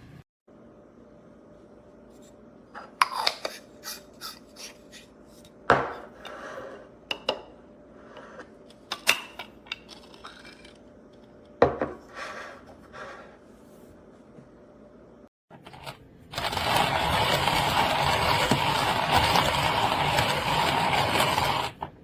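Metal parts of a manual stainless-steel conical-burr coffee grinder clinking and knocking as it is handled, then, about sixteen seconds in, a loud steady crunching of coffee beans being ground for about five seconds before it stops.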